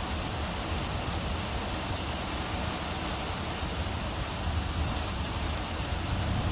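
Steady rain falling on a tin roof, with scattered drop ticks and a low, steady rumble underneath.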